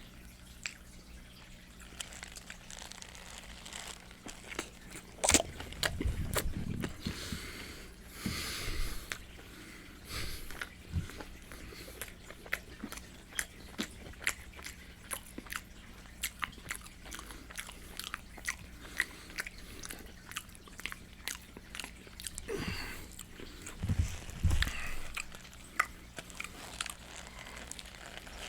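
Close-miked eating of Popeyes fried chicken: crunching bites into crispy breading and steady chewing with loud wet mouth smacking. Louder bursts of crunching come about five to nine seconds in and again near the end.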